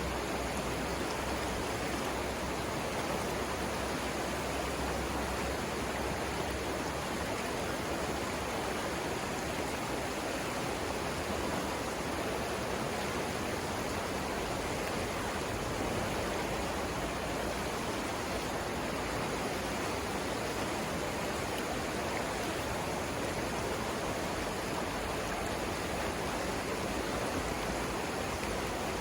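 River water rushing steadily: a continuous, even noise of flowing water, with no breaks or single events.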